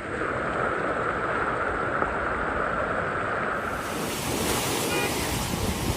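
Rushing floodwater with wind buffeting the microphone, a steady noisy rush that turns brighter and fuller about three and a half seconds in.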